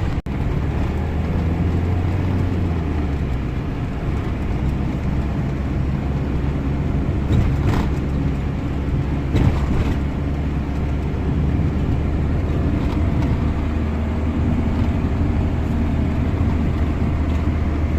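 Camper van driving along: steady engine and road drone, with two brief knocks near the middle.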